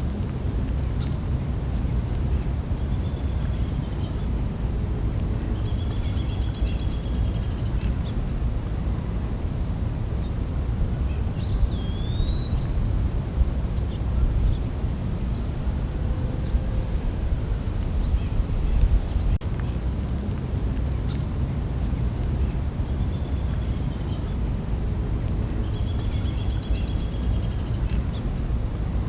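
Night insect chorus: a steady high-pitched drone with a cricket chirping in quick pulse groups, over a low rumbling background. A few short higher calls from another animal come in twice, a few seconds in and again near the end.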